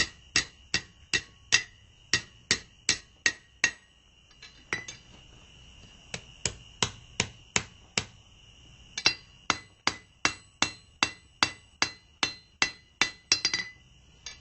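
Blacksmith's hand hammer striking hot square steel bar on an anvil, about two and a half blows a second with a steady ringing tone under them. The blows stop for about two seconds about a third of the way in, apart from one strike, then carry on evenly.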